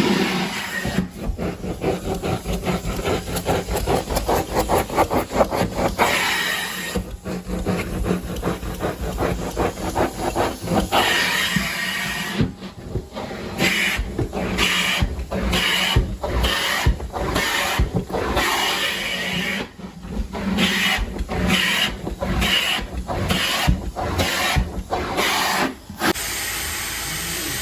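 Carpet-cleaning extraction tool spraying and vacuuming in repeated passes: a hissing suction rush that comes in quick strokes, then breaks off about once a second in the second half, ending in a steady drone.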